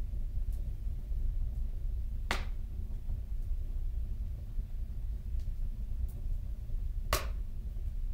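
Wood fire burning in a tiled stove: a steady low rumble with two sharp crackles, one about two seconds in and one near the end, and a few faint ticks between.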